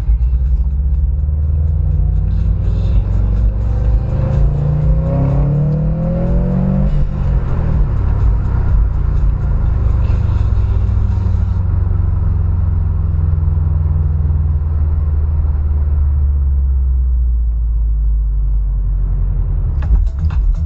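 Car engine rumbling, its pitch climbing as it revs up about two to seven seconds in, then settling into a steady low rumble.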